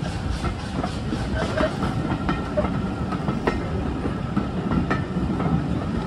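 Railway passenger coaches rolling slowly past close by: a steady rumble of steel wheels on the rails with irregular clicks and clanks.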